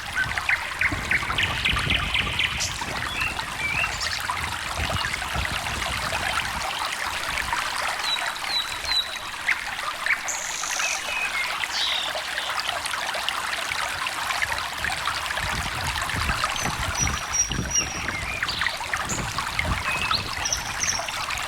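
Small stream trickling steadily, with short bird chirps now and then over the water.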